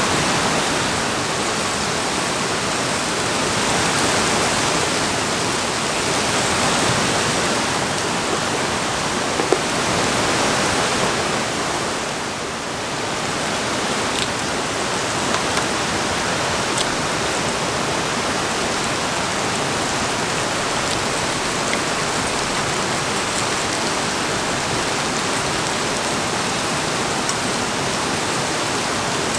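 Tomato wedges sizzling in hot oil in a small cast-iron skillet on a portable gas burner: a steady, loud frying hiss that swells and eases a little, dips briefly about halfway, and carries a few faint clicks.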